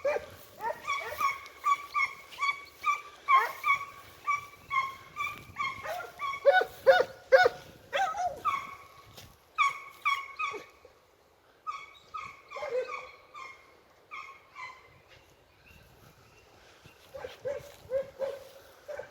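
Pack of Italian scent hounds (segugi) giving tongue on a hare's trail: a rapid string of short, pitched bays and yelps from several dogs. The calling thins out and fades for a few seconds past the middle, then picks up again near the end.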